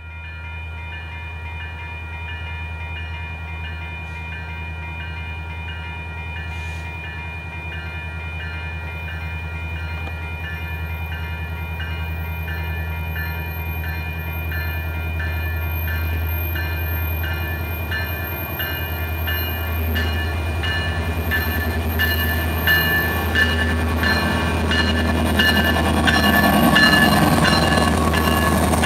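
A freight train approaching on diesel power, led by a Union Pacific SD70ACe and a Norfolk Southern SD70ACC. The low locomotive rumble grows steadily louder until the engines pass close by near the end.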